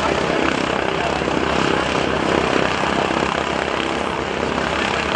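The 600-horsepower Pratt & Whitney radial engines of North American SNJ-2 trainers running steadily, with a dense propeller and engine drone.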